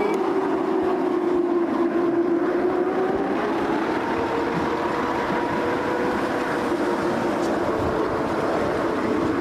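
Talyllyn Railway narrow-gauge passenger coach running along the track, heard from inside the coach. It gives a steady rumble with a sustained hum whose pitch drifts slightly, and a fainter higher tone that rises a little about three seconds in.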